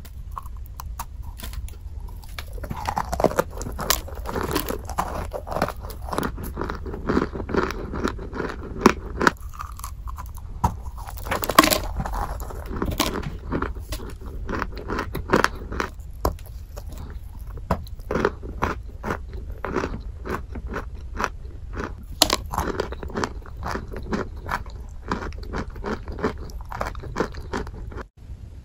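Close-up biting and chewing of hard, dry chalky chunks: dense, irregular crunching and crackling with sharp snaps as pieces break off.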